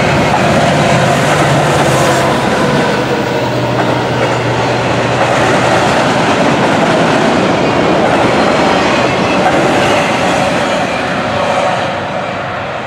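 Norfolk Southern freight train rolling past close by, its steel wheels running on the rails with a continuous rattle and rumble. A steady diesel engine drone from the mid-train locomotive is heard in the first few seconds. Near the end the noise starts to fade as the autorack cars pull away.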